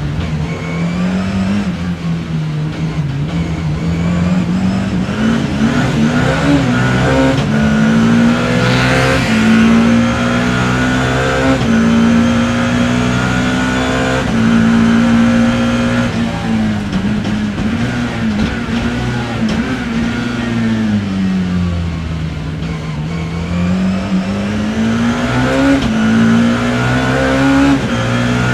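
BMW E30 M3's four-cylinder racing engine heard from inside the car, its note rising and falling with the throttle: pulling up to a high pitch, held, easing off twice, then climbing again near the end.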